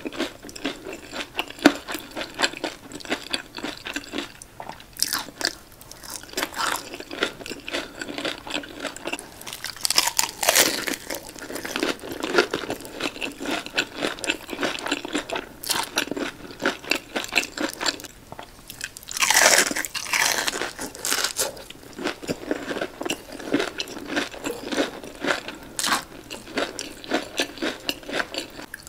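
Close-miked biting and chewing of breaded fried fish sticks: a steady run of crisp crackles from the crust, with louder crunching bursts about ten and nineteen seconds in.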